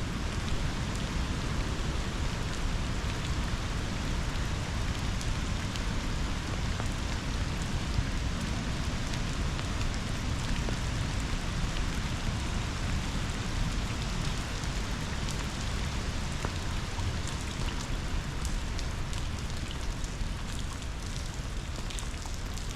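Steady rain falling, with the rush of flowing river water beneath it and scattered sharp drop hits, more of them in the later part.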